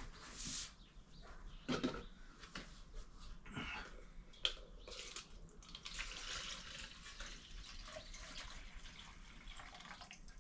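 Small brake parts being worked in a pan of diesel fuel: faint liquid splashing and dripping with scattered light knocks of metal parts.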